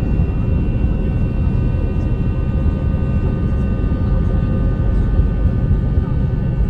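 Airbus A321 jet engines running at high thrust for takeoff: a steady, loud rumble with several constant whining tones over it.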